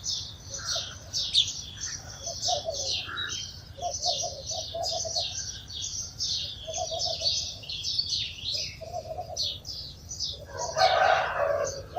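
A flock of sparrows chirping continuously: many short, quick chirps overlapping, with some lower notes in between. Near the end comes a louder, lower burst lasting about a second.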